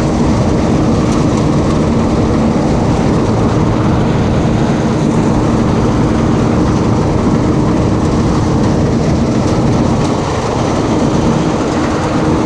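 Bizon Z056 combine harvester running steadily: a loud, even engine drone with a steady hum that eases off slightly about ten seconds in.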